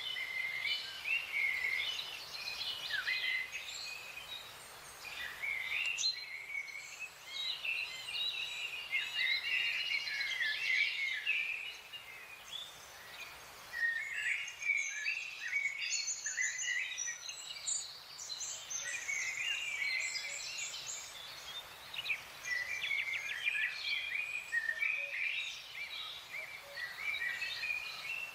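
Several small birds chirping and singing at once, a busy overlapping chorus of short, quick notes, thinning briefly about twelve seconds in before picking up again.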